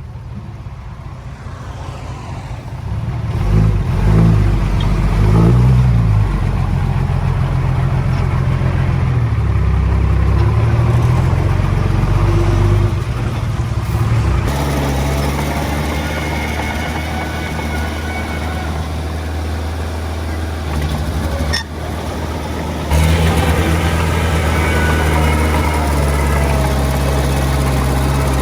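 Heavy machine's diesel engine revving up and down a few seconds in, then running steadily under load, with a brief dip about three quarters of the way through before it picks up again.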